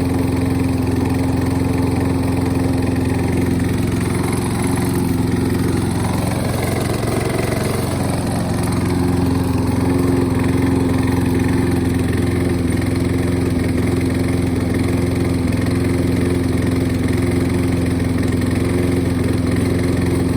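Toro lawn mower engine running steady and low on gas, left to run until it burns off the last fuel in the lines and carburetor for winterizing. Its running wavers briefly about five to eight seconds in, then settles again.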